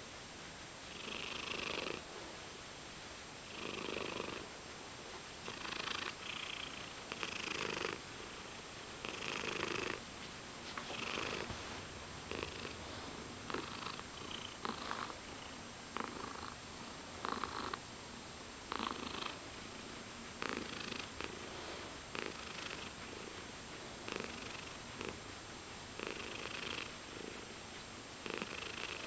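Domestic cat purring, in repeated swells that come roughly every one to two seconds.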